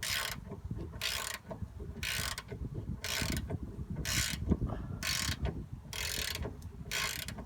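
Socket ratchet being worked on a 14 mm bolt, backing it out of a Nissan 240SX tension rod mount: a short burst of ratchet clicking about once a second as the handle is swung back, with dull knocks of the tool in between.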